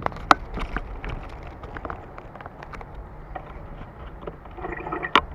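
Bicycle rattling and clattering over a rough dirt trail, with frequent sharp knocks from the bike and a low wind rumble on the microphone. A short pitched squeal near the end, then a hard knock.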